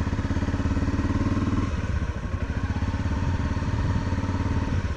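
Single-cylinder dual-sport motorcycle engine running at low speed on the move, with dense even firing pulses; its note drops a little under two seconds in.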